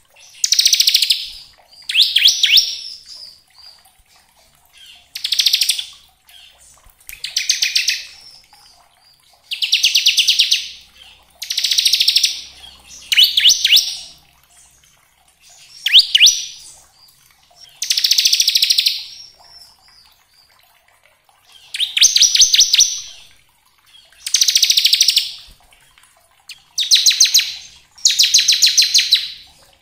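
Bar-winged prinia (ciblek) singing its 'ngebren' song: a run of short, rapid buzzing trills, each about a second long, repeated every second or two with a brief pause past the middle.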